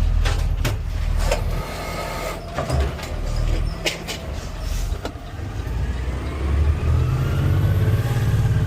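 Garbage truck engine running with several sharp clicks and knocks over the first five seconds, then revving up with a steadily rising pitch as the truck accelerates.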